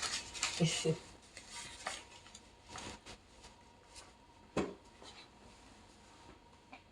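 Faint scattered clicks and light knocks of small objects being handled in a small room, with one sharper knock about four and a half seconds in.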